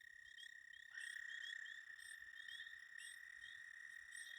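A chorus of pond frogs calling. A steady high trill runs throughout and gets louder about a second in, with many short rising chirps repeating over it.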